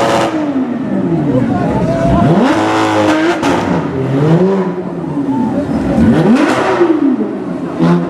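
Porsche 991.2 GT3 RS's 4.0-litre flat-six through a Sharkwerks exhaust, revving and accelerating hard, its pitch dropping and climbing again several times as it runs through the revs. The exhaust is very loud, with a sharp crack about three seconds in.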